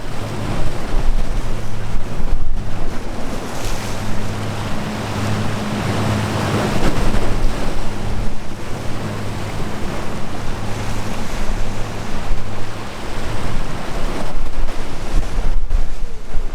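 Sea waves washing and breaking, with wind buffeting the microphone. The surge swells to its loudest about halfway through, over a steady low hum.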